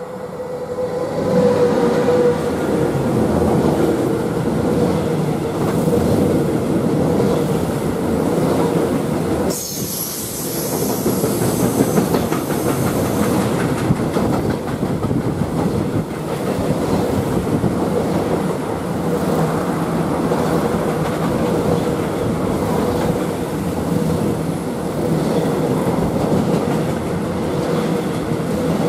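Freight train of flat wagons loaded with steel wire coils rolling past close by: a loud, steady rumble of wheels on rails that builds over the first couple of seconds as the train arrives, then holds, with a steady tone running under it.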